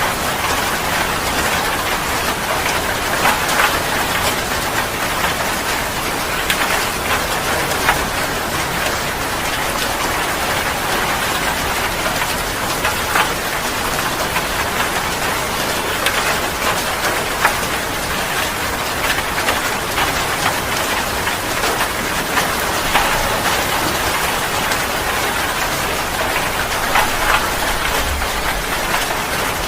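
Heavy rain pouring steadily and drumming on a surface, with a dense patter of individual drops.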